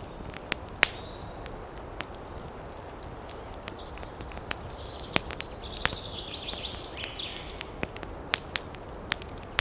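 Wood campfire crackling, with irregular sharp pops and snaps over a steady hiss. A brief run of high chirping comes in around the middle.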